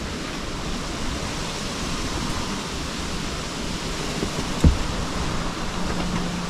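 Steady wind rushing, an even hiss of noise, with one dull thump about four and a half seconds in.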